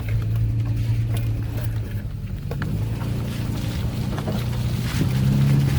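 Toyota Tacoma pickup's engine running at low trail speed, a steady drone, with scattered short knocks and rattles from the truck working over the trail. Near the end the engine gets louder and slightly higher as it is given more throttle.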